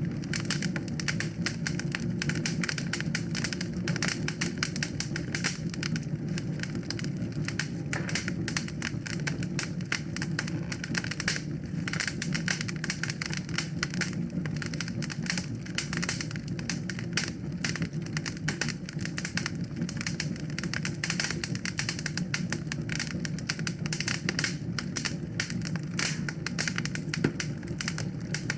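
Wood fire in a fireplace crackling and popping densely and irregularly, over a steady low rumble.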